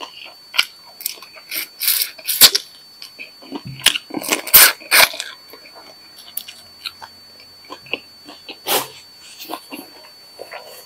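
Close-miked eating sounds: crunching and chewing of fried battered prawns, with wet lip and finger smacks in irregular bursts, and a paper napkin being handled near the end. A faint steady high-pitched whine runs underneath.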